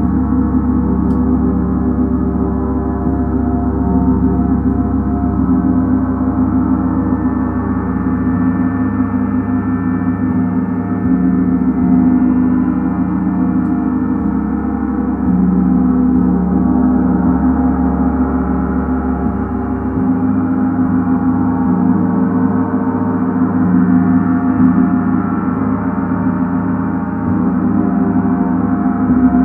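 Gongs played in a continuous wash: many overlapping, sustained ringing tones, with the deepest notes shifting every few seconds.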